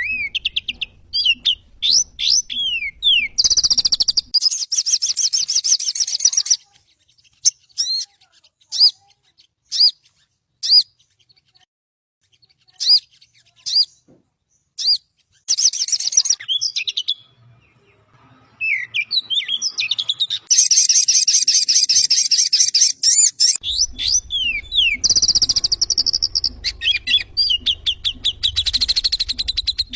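Sogon songbird singing: quick sliding whistled notes broken up by long, dense chattering runs, repeated through the stretch.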